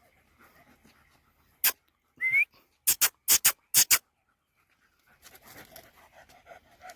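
Dog giving a string of short, sharp barks, mostly in quick pairs, with a brief rising whine among them.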